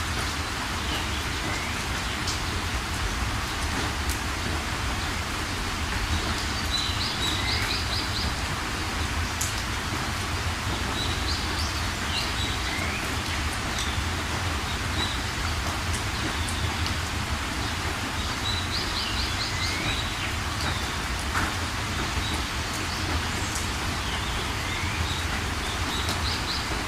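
Steady rain falling, with birds calling over it: short rising chirps and quick trills of high notes every few seconds.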